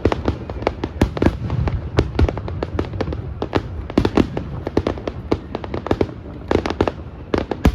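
Aerial fireworks display: a rapid, irregular string of sharp bangs and crackling pops over a low rumble.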